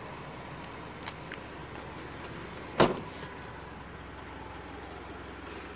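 A car door shut with a single solid thud about three seconds in, after a couple of light clicks, over a steady low background hum.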